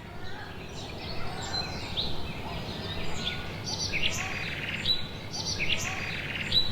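Songbirds chirping and calling: many short rising and falling chirps, with a couple of buzzy trills, over a steady low background noise. The sound grows slowly louder.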